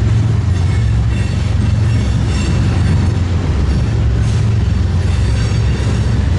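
Train running by with a steady, loud low rumble.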